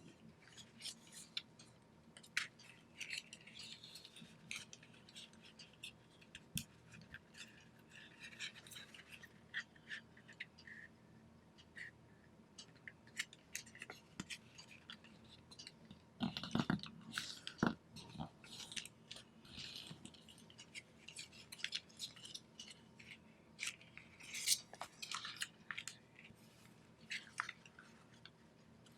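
Paper being folded and creased by hand: a string of short crinkling rustles and soft ticks, with a louder rustle about two-thirds of the way through.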